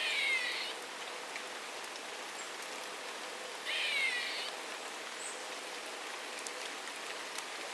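A songbird calling twice, about four seconds apart, each call a short burst of quickly falling notes, over a steady patter of rain.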